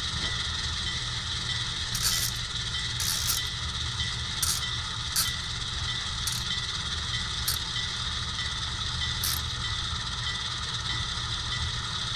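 HO-scale model diesel locomotive's sound decoder running at idle with a steady low engine hum. It is cut by about seven short, sharp bursts of noise over the first nine seconds.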